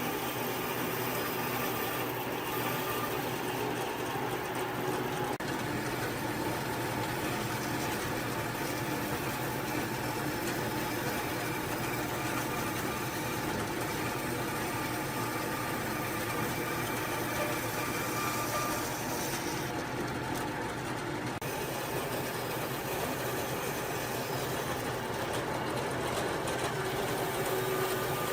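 A motor-driven workshop machine running steadily, a continuous mechanical noise with a faint steady hum.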